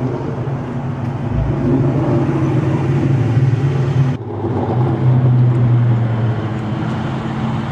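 A 1998 Pontiac Grand Prix GT's 3800 Series II V6 idling steadily through its dual exhausts, with a brief break about halfway through.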